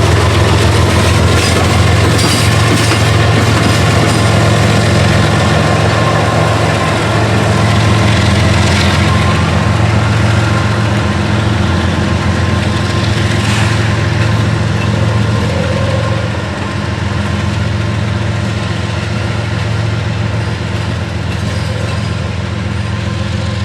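Diesel locomotive engine running with a steady deep drone as a CSX intermodal freight train reverses slowly.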